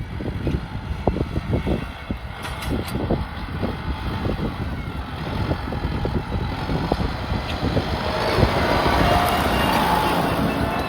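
Kubota tractor's diesel engine running, with frequent knocks and rattles; it grows louder, with a brighter hiss, over the last few seconds.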